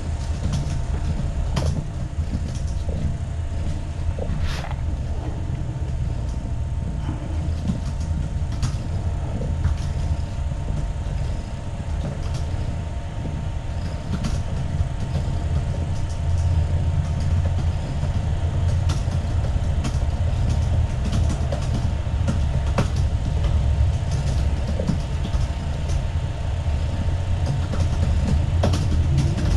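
Mother cat purring close to the microphone, a steady low rumble, with scattered small clicks and taps over it.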